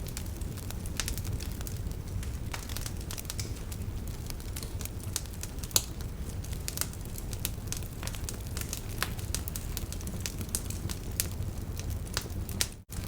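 Wood fire burning: a steady low rumble of flames with frequent, irregular sharp crackles and pops from the burning logs. The sound cuts out for an instant near the end.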